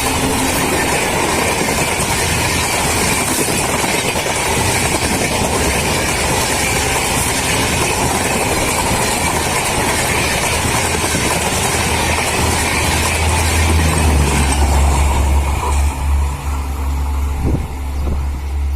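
Humsafar express train rushing past at full speed: a loud, steady roar of coaches running over the rails, with a low rumble growing in the second half before the noise begins to die away near the end.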